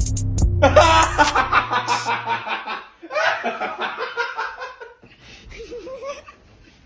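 Laughter in several stretches, with the tail of an electronic music track's deep bass note ending about two and a half seconds in.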